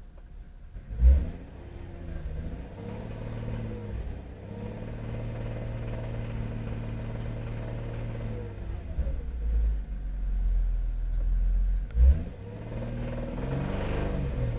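VW Golf Mk3 VR6's narrow-angle V6 engine running with its revs rising, holding and falling, with a loud thump about a second in and another near the twelve-second mark. The owner hears a strange knock in this engine.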